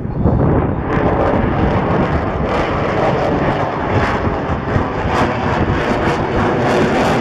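Boeing F/A-18F Super Hornet's twin F414 turbofan jet engines, loud and steady; the sound gets brighter and harsher about a second in and stays at full strength.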